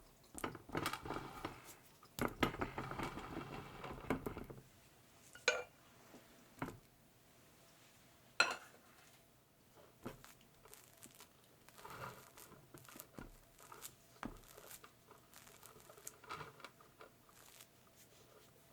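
Close-up cake-making handling sounds: a few seconds of dense rustling and scraping, then several sharp clicks of a utensil against a dish, followed by softer scattered clinks and rustles.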